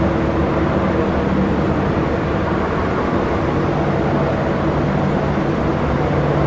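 Jet aircraft engines running steadily: a continuous drone with a few held low hums, neither rising nor falling in pitch.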